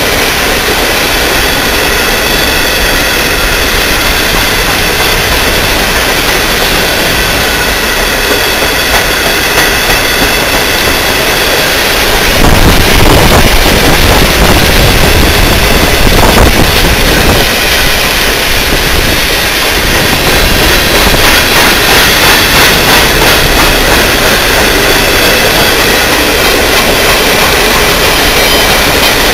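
Freight cars of a long Norfolk Southern train, mostly covered hoppers, rolling past at close range: a steady rumble and clatter of steel wheels on the rails, with thin high squealing tones over it. It grows louder about twelve seconds in.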